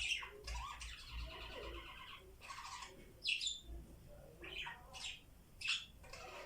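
Budgies chattering: a buzzy warble lasting about a second and a half, then a string of short, sharp chirps.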